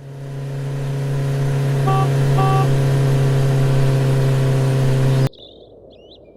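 Cartoon motorcycle engine sound effect running at a steady pitch. It builds up over the first second or so, holds, then cuts off abruptly about five seconds in. Two short tones sound briefly about two seconds in.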